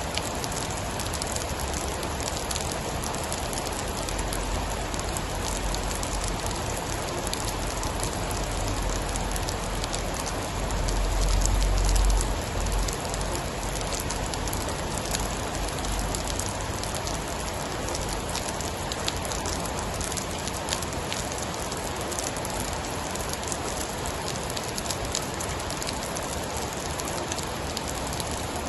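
Steady heavy rainfall with fine crackles of a wood fire. About ten seconds in, a low rumble of distant thunder swells and fades within a few seconds.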